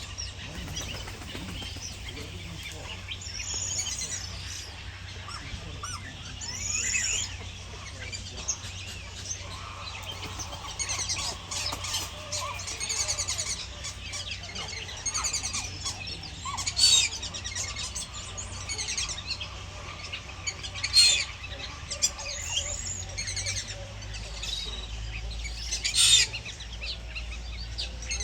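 Birds chirping and calling: a run of short, high-pitched calls, with a few sharper, louder calls in the second half.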